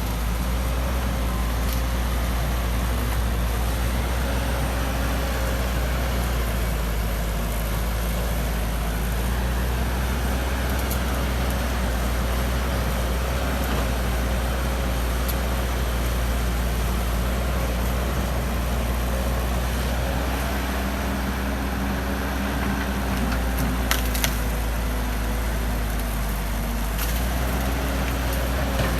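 Excavator's diesel engine running steadily while digging, with a few sharp knocks from the working machine near the end.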